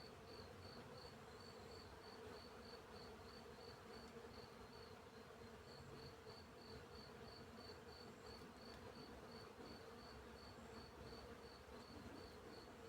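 Field crickets chirping in a steady high-pitched pulse, about three chirps a second, over the faint drone of a bee buzzing.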